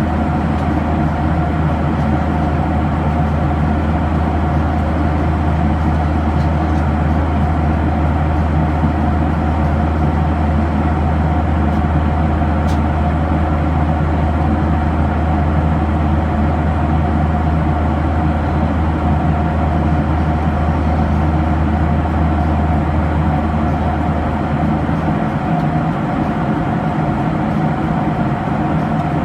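Cabin noise of a Boeing 737-800 in flight: a steady rush of airflow over a drone from its CFM56-7B turbofan engines, with a deep hum that weakens about 25 seconds in.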